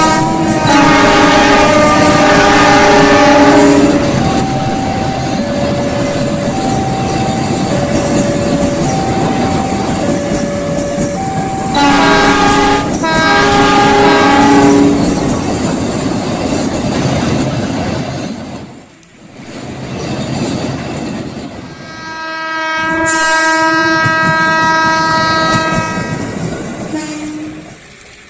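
Train horn sounding three long chord-like blasts over a steady rumble of a passing train. Between the first two blasts a slow alternating two-note tone sounds.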